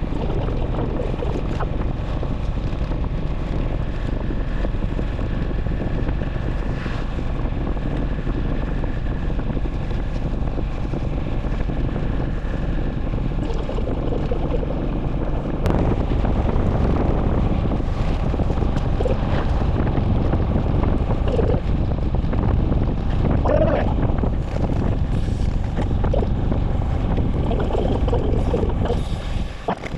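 Wind rush buffeting the microphone of a moving motorcycle, over a steady low rumble. It gets suddenly louder about halfway through.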